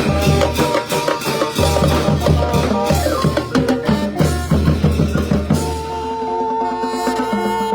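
Thai brass band (trae wong) playing a lively tune, driven by bass drum and snare. About three-quarters of the way through, the drums stop and the horns hold long notes.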